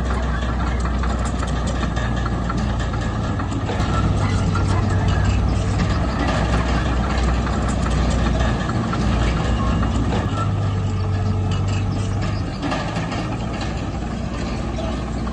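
Diesel engine of a heavy earthmoving machine running steadily with a deep hum, growing louder for a few seconds twice.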